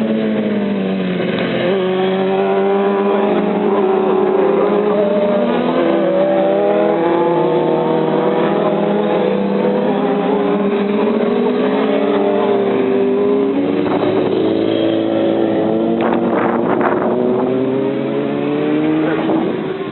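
Several motorcycle engines running hard on a race track at once, their pitches rising and falling as they accelerate and pass.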